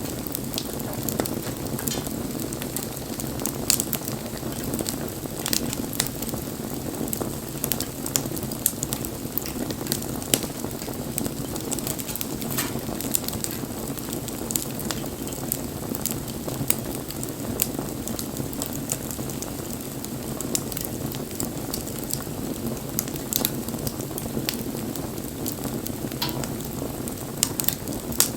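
Bonfire burning, with a steady low rush and frequent sharp crackles and pops scattered throughout.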